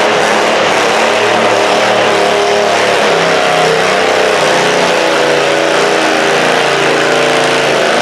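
Stock altered pulling garden tractor's small engine running at high revs under load, its pitch wavering up and down as it pulls.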